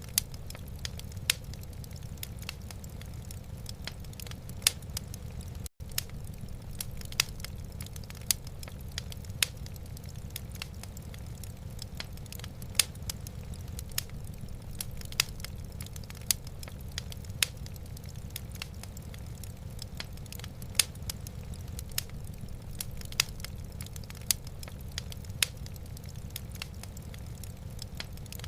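Wood fire burning in a fireplace: irregular sharp crackles and pops, one or two a second, over a low steady rumble.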